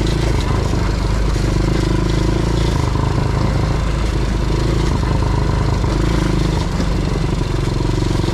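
Quad bike engine running at a fairly steady speed, its note shifting slightly a few times, under a constant rushing noise.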